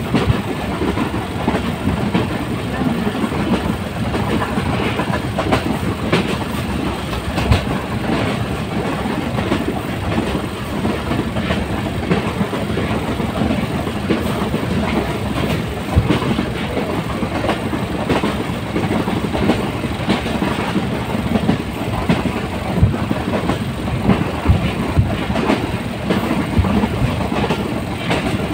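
A moving train running on its track, a steady rumble with frequent irregular clicks and knocks from the wheels passing over rail joints.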